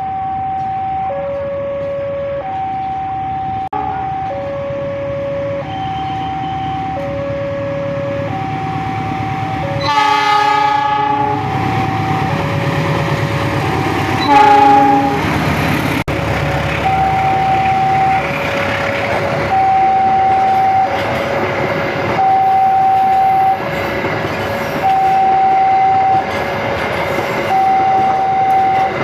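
A two-tone warning alarm alternating steadily between a higher and a lower tone, each lasting about a second and a half, as at a railway level crossing. About ten seconds in, a train horn sounds for about a second, then again briefly about four seconds later. Then a train passes with a rising rumble and clickety-clack of wheels on the rails while the alarm keeps going.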